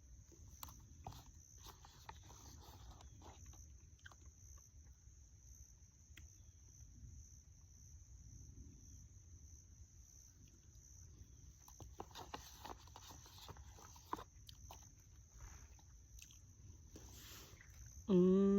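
Steady high insect trill over a faint low rumble of outdoor air, with scattered light clicks and rustles. Near the end a short, louder voiced sound slides down in pitch.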